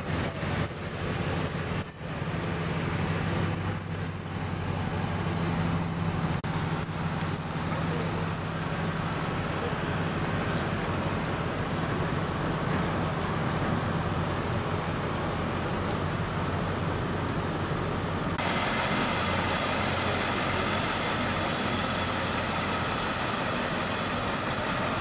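Boat engine running steadily with a low hum, under a wash of wind and water noise. About eighteen seconds in, the sound changes abruptly to a brighter hiss and the hum drops away.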